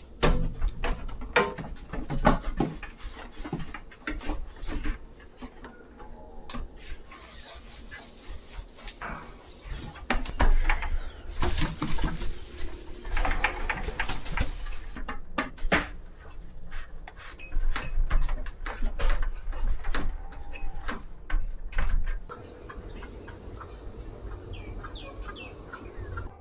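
Household objects being handled: a run of knocks, clicks and clatter, with stretches of rubbing or wiping noise.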